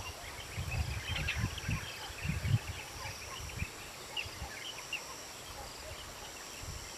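Outdoor ambience with scattered short bird chirps over a steady high-pitched drone, with irregular low rumbles.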